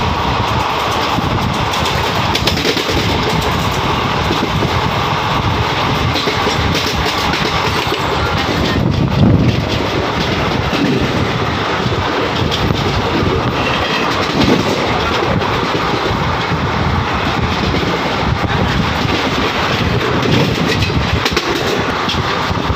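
Shalimar–Secunderabad Superfast Express passenger coach running at speed, heard from the coach window: steady rushing noise with wheels clattering over the rails, and a brief louder low burst about nine seconds in.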